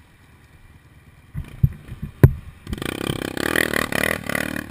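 A few sharp knocks, the loudest a single crack about two seconds in, then an enduro dirt bike engine starts running and revving from about halfway through.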